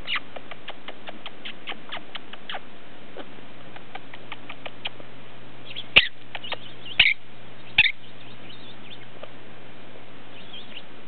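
Quaker parrot making a run of soft, quick clicks, then three sharp chirps about six, seven and eight seconds in, with a few faint chirps near the end.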